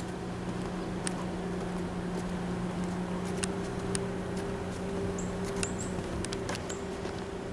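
Passenger train rolling past with a steady low hum, scattered sharp clicks and clacks, and a few brief high squeals a little past five seconds in.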